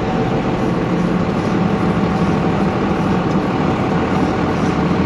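Pickup truck engine running steadily on the road, a constant drone with road noise.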